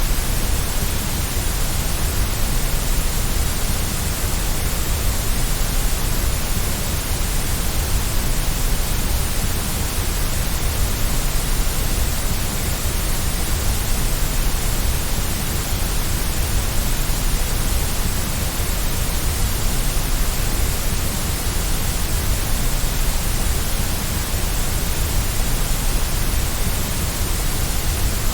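Steady, unchanging white noise played as a baby's sleep aid: an even hiss across the range with a low rumble underneath.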